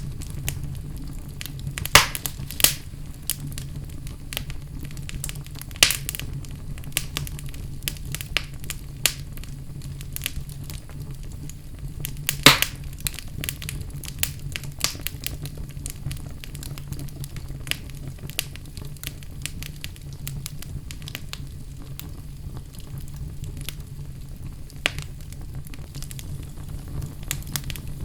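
Wood fire in a fireplace crackling, with many small pops over a steady low rumble; a few louder, sharper pops come about two seconds in, near six seconds and a little past twelve seconds.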